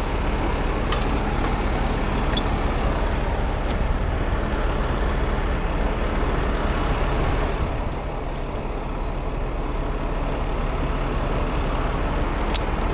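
Heavy tow truck's diesel engine running steadily during a winching job, with a few faint clicks. The engine eases slightly about eight seconds in.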